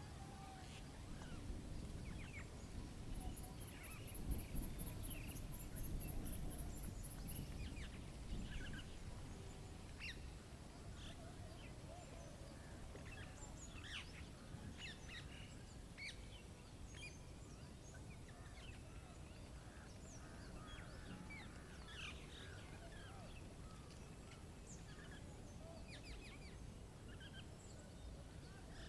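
Faint outdoor birdsong: many birds chirping and calling in short, scattered notes throughout. A low rumble of wind swells over the first several seconds, and a very high, rapid pulsing sound runs briefly a few seconds in.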